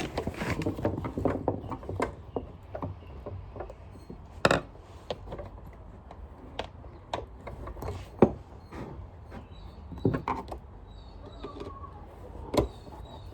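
Irregular plastic clicks and knocks from handling a vacuum cleaner's parts while its bag is refitted and the first screw is set in.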